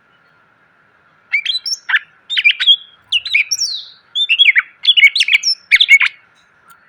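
A green leafbird (cucak ijo) singing a fast, varied run of loud whistled notes that glide up and down, starting about a second in and stopping shortly before the end.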